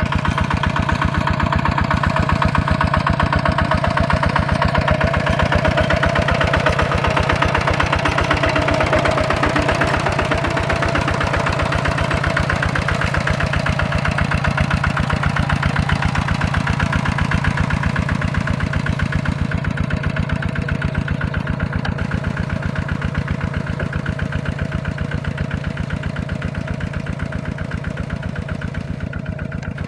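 Tractor diesel engine running steadily with an even firing beat, slowly growing quieter over the second half.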